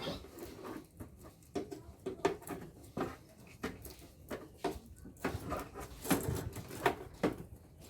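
Irregular light clicks, knocks and scrapes of hand work on the metal parts of an air-conditioner unit, with no steady rhythm.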